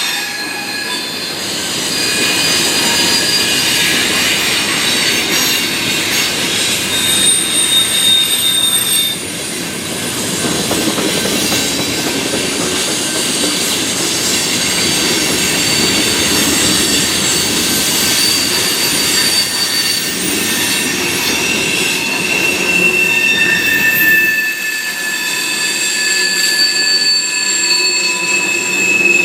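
Freight cars rolling past on steel wheels, with a steady rumble and several high-pitched wheel squeals that hold and slowly slide in pitch, overlapping one another.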